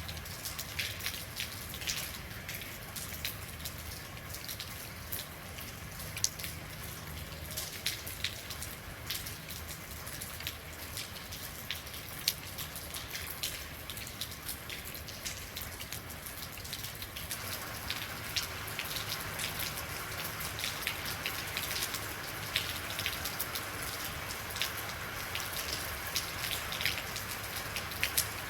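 Real rain falling steadily, a continuous hiss with many individual drops clicking sharply on a surface. About two-thirds of the way through, the rain grows a little fuller and louder.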